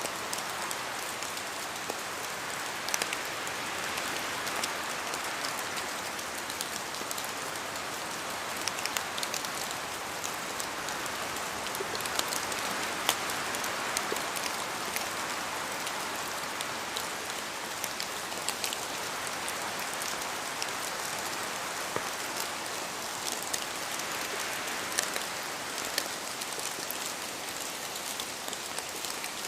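Steady rain falling, an even hiss dotted with many separate drops ticking sharply on surfaces.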